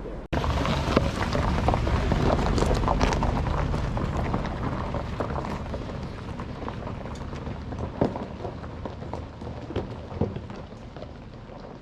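Rain falling, a dense hiss with many scattered sharp drop hits, loudest early on and easing off slowly.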